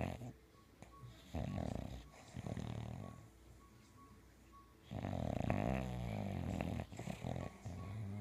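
English bulldog snoring in its sleep: several separate snores at uneven intervals, the longest and loudest about five seconds in, lasting about two seconds.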